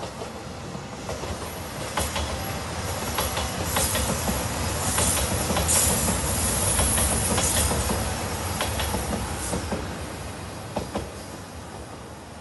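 JR Shikoku 2700 series diesel limited express train passing close by. It swells and then fades, with the wheels clicking over rail joints and a high hiss at its loudest.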